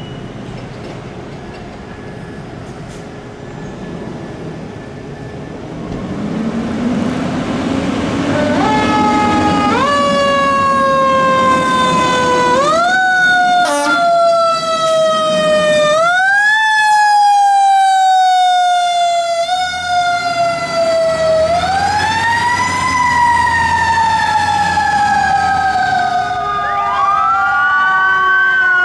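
Fire engine siren going on an emergency response, over truck engine and road noise. The siren comes in about a third of the way through and rises quickly then falls off slowly, over and over; near the end it winds up and down more slowly.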